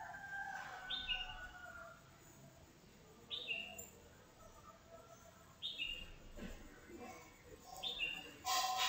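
A bird chirping faintly: a quick two-note call, high then a step lower, repeated four times about every two and a half seconds. A brief louder sound comes near the end.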